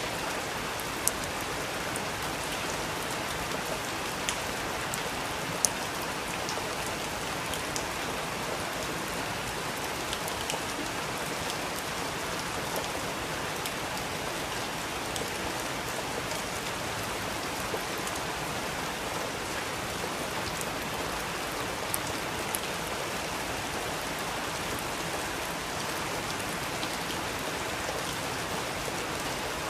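Steady rain falling, an even hiss with scattered louder drop ticks now and then.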